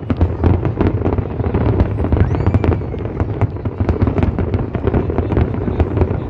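Aerial fireworks display going off in a rapid, unbroken barrage of bangs and crackles.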